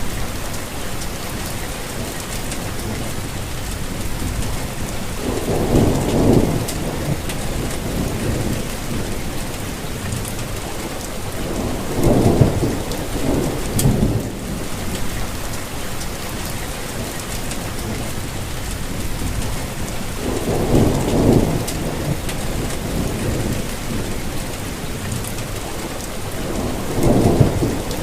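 Steady rain falling on surfaces, an even hiss, with a low rumble swelling up and dying away four times, about every six to seven seconds.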